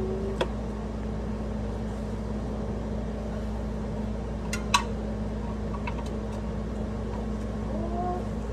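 A steady low mechanical hum, with a few sharp clicks; the loudest is a pair about halfway through.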